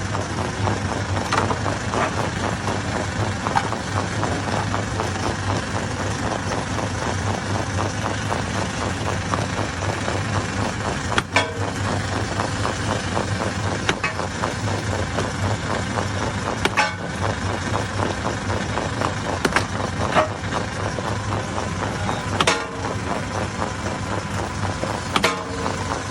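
Hammer-type stone crusher running steadily with a low hum, and a sharp knock every few seconds as stone strikes.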